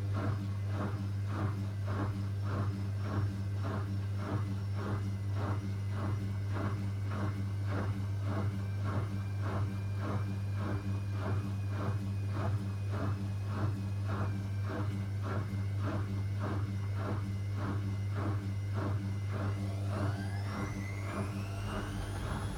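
Zanussi ZWC 1301 washing machine's motor humming steadily as the drum turns the wet load, with about two soft knocks a second. Near the end the motor speeds up in a rising whine as it tries to go into spin, with the machine detecting an unbalanced load.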